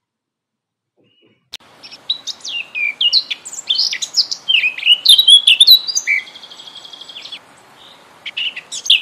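Small birds chirping: a quick run of varied rising and falling chirps, with a buzzy trill about six seconds in. The first second and a half is silent.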